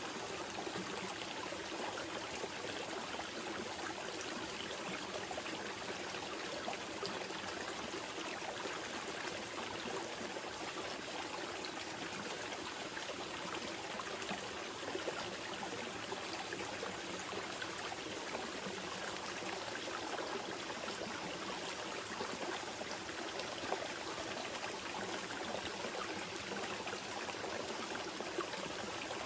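Small mountain river flowing steadily, a continuous even rush of water with light trickling and splashing over stones.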